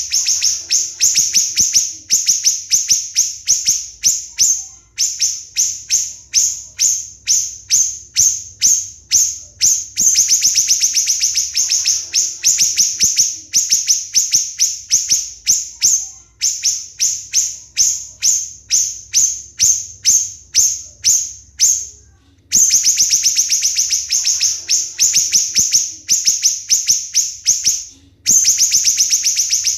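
Siri-siri bird singing in long, fast series of sharp, shrill notes, about four a second, in runs broken by brief pauses: the tight rapid 'tembakan' shots prized as tutor song for competition songbirds.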